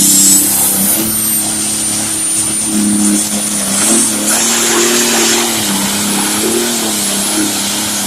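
Light pro stock pulling tractor's turbocharged diesel engine running hard under load during a pull. A high turbo whistle climbs in the first second and then holds, and the engine note wavers and dips in the middle.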